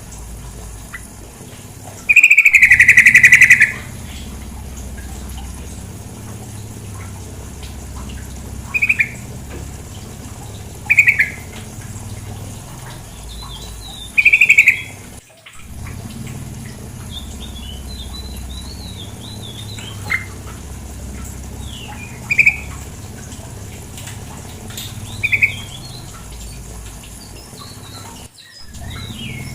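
Sooty-headed bulbul (trucukan) calls: short calls every few seconds, with one long, loud call about two seconds in and some fainter, higher chatter later, over a steady low rush of flowing water. The sound drops out briefly three times.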